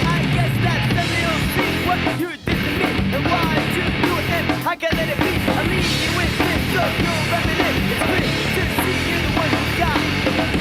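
Heavy hardcore punk played by a three-piece band: electric guitar, bass guitar and drum kit. The whole band stops for an instant twice, a couple of seconds in and again near the middle.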